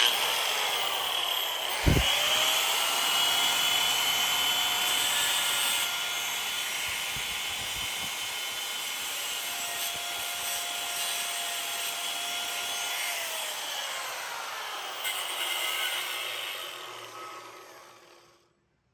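Angle grinder cutting into metal: the motor's whine starts suddenly, dips in pitch about two seconds in as the disc bites, runs steadily under load, then falls in pitch and fades out near the end as the grinder winds down.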